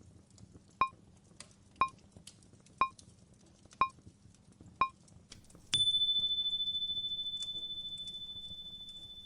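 Electronic countdown beeps: five short pips a second apart, then one long, higher beep that slowly fades away, like a timer going off. Faint fireplace crackling underneath.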